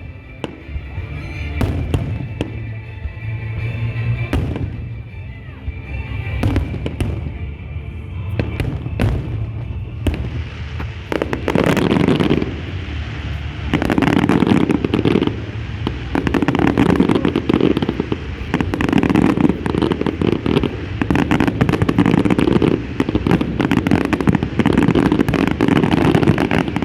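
Aerial fireworks display. Separate shell bursts bang for the first ten seconds or so, then about eleven seconds in the firing becomes a dense, continuous barrage of crackling bursts that runs on.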